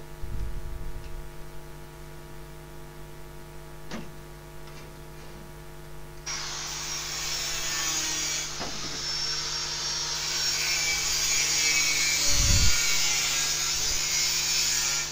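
A steady electrical hum, then about six seconds in a power tool starts abrading the car's body panel with a steady rasping noise that runs on to the end.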